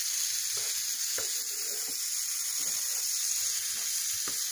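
Sliced mushrooms sautéing in a frying pan, sizzling with a steady high hiss, with a few light knocks as they are stirred.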